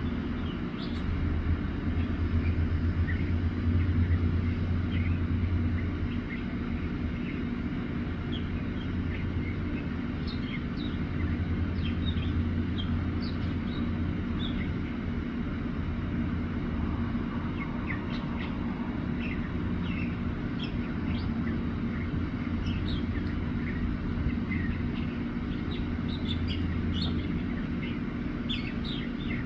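A mockingbird singing a long run of short, varied chirps and notes, over a steady low rumble that is loudest in the first few seconds.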